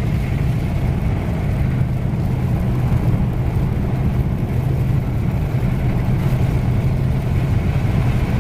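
Steady engine and road noise heard from inside the cabin of a car driving along a highway.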